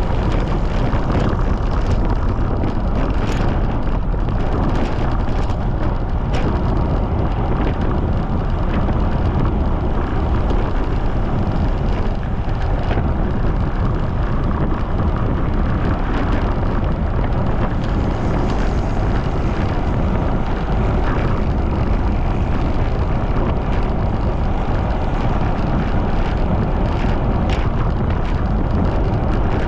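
Strong wind rushing over the microphone while riding a bicycle at speed, a loud steady rush mostly in the low range, with a few faint clicks.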